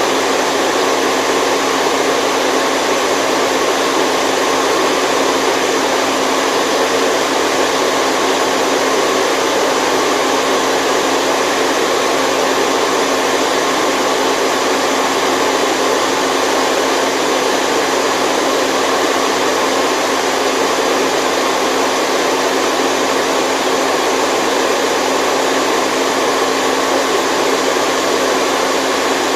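Steady, unbroken white noise, a loud even hiss with little bass that does not change.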